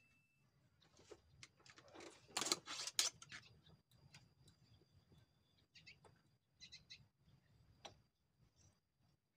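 Faint, short bird chirps several times, with scattered small clicks and a brief rustle about two to three seconds in.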